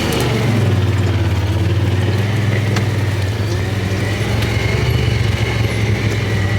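Small buggy's engine running steadily while driving, with a slight rise in pitch just after the start.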